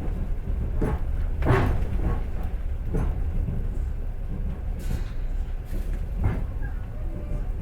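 Passenger train carriage in motion: steady low rumble of the wheels on the rails, with several irregular sharp knocks, the loudest about one and a half seconds in.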